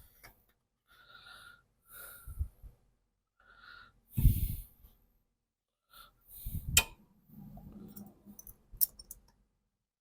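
Strained breathing and grunts of someone working in an awkward spot, broken by a couple of knocks and sharp metallic clicks from tools and parts being fitted on a mower engine.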